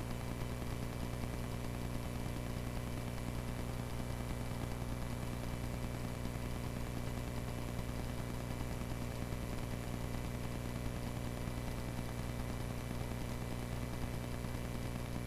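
Cessna 140A's piston engine and propeller droning steadily in cruise flight, heard from inside the cockpit.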